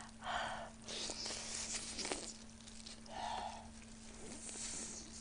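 Close-miked chewing and wet mouth sounds of someone eating saucy pork rib meat off the bone, in soft irregular bursts, over a faint steady electrical hum.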